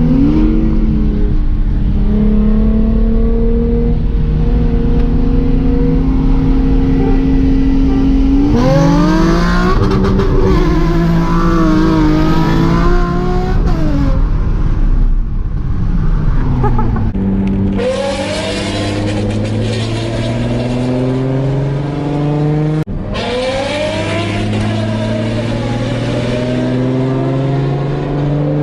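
Loud aftermarket-exhaust Nissan V6 sports car engine under load, its pitch climbing slowly and steadily. In the middle the revs waver up and down and then drop, before another slow, steady climb.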